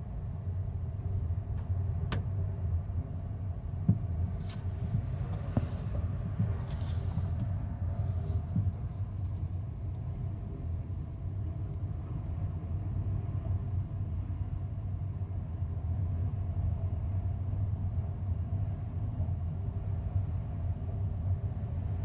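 Ferry's engines running with a steady low hum heard on board. A few light clicks and rattles come in the first third.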